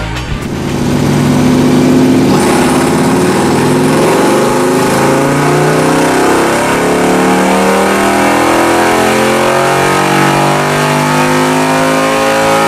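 Motorcycle engine under acceleration, its pitch climbing slowly and steadily for several seconds.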